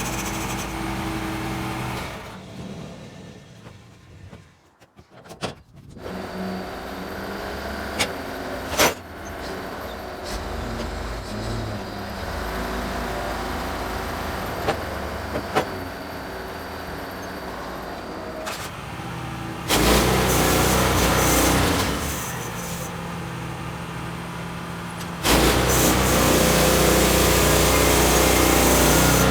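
Small engine running steadily. It drops away briefly a few seconds in, then returns, with a few sharp clicks. It gets louder for a couple of seconds about 20 s in and again from about 25 s on.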